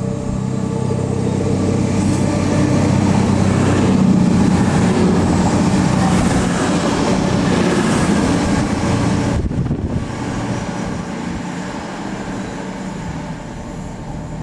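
A train passing through the station: its engine hum and the rolling noise build to a peak a few seconds in, then fade as it moves away.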